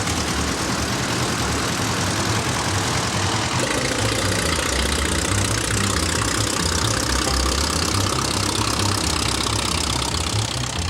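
Antique farm tractor engine running steadily, its sound shifting in tone about three and a half seconds in.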